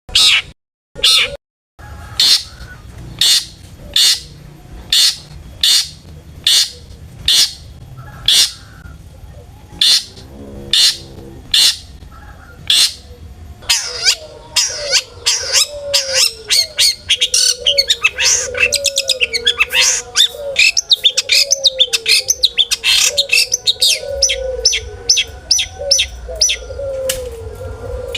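Long-tailed shrike (cendet) singing: sharp single calls about one a second, then from about halfway a fast, dense song of many varied notes, with a low wavering phrase repeating underneath.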